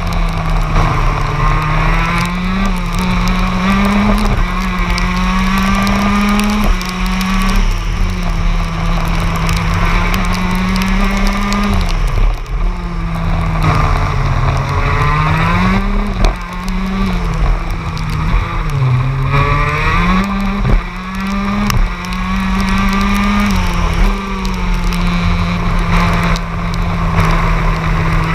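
TM K9ES 125cc two-stroke shifter kart engine at racing speed. It revs up through the gears in repeated rising sweeps and drops back on downshifts and braking. The loudness dips briefly a few times.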